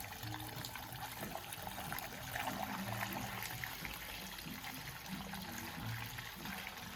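Petrol trickling steadily on a Peugeot 102 moped being filled with fresh two-stroke mix, its fuel tap left open so fuel runs through and leaks.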